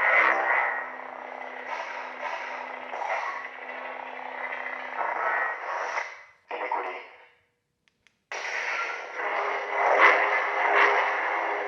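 Xenopixel V3 lightsaber sound fonts: a blade hum with swelling swing sounds, shutting down about six and a half seconds in. After a short silence, another font ignites sharply about eight seconds in and hums with more swings.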